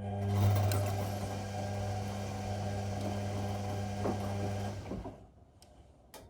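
Whirlpool Indiana 1400 washing machine running for about five seconds with a steady hum, then stopping. A single click comes near the end. This fits the drum turning during the wash phase, between pauses.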